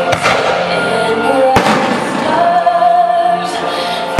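Aerial firework shells bursting with a few sharp bangs, the loudest about a second and a half in, over loud music with a singing voice.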